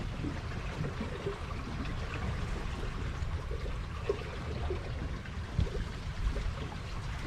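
River water trickling and lapping at the edge of a pontoon raft, with uneven low wind rumble on the microphone.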